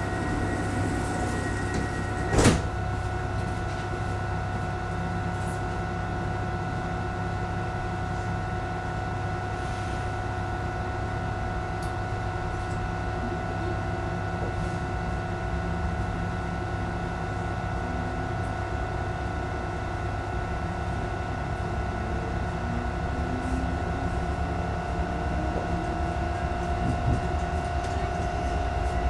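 Electric commuter train running between stations, heard from inside the carriage: a steady rumble of wheels on track with a constant electric whine, a single sharp knock about two seconds in, and a faint rising whine near the end.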